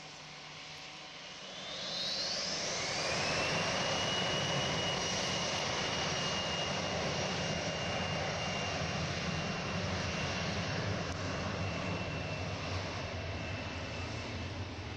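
Cessna 750 Citation X's Rolls-Royce AE 3007C turbofan engines spooling up: a whine rises steeply about two seconds in, then holds as a steady high tone over loud, even jet noise.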